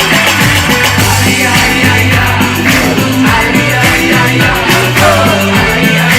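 Live band playing a dance-pop song at full volume: held synth-bass notes over a steady, fast drum beat, with a sliding vocal line about five seconds in.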